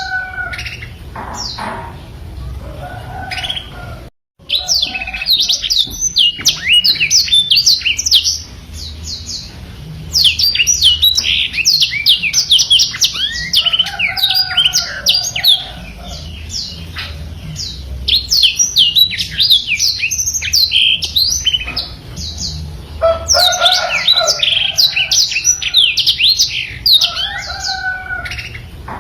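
Black-throated canary (blackthroat) singing long, fast rambling phrases of high twittering notes, broken by short pauses. A brief break in the sound about four seconds in.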